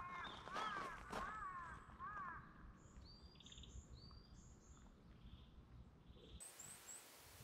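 Wild birds calling in quiet forest: a run of short arching calls in the first couple of seconds, then fainter high chirps. The background hiss changes abruptly about six seconds in.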